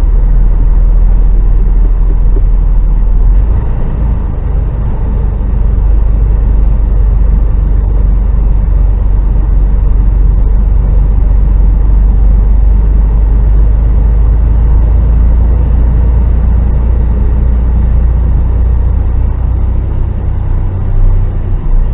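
HGV truck's diesel engine and road noise heard from inside the cab: a loud, steady low drone, easing briefly about four seconds in.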